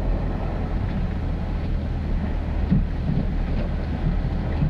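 Ford F-350 Super Duty pickup with a truck camper driving slowly on a sandy dirt road: a steady low engine drone and tyre and road noise, with a few light knocks.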